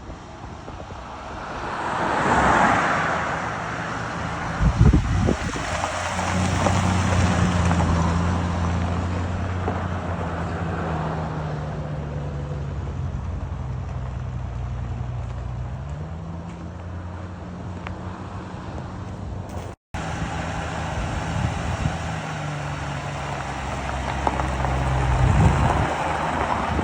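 1966 Ford Bronco half-cab driving, its engine running steadily under way with wind and road noise. The engine's pitch dips and climbs again about two-thirds of the way through, with a couple of low thumps and a brief break in the sound.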